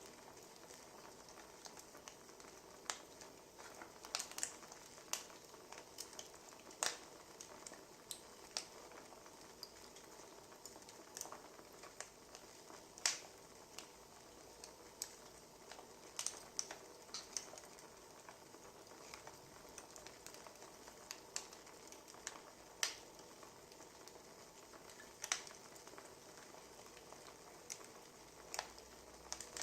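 Wood fire crackling: irregular sharp pops and snaps, a few louder ones, over a soft steady hiss.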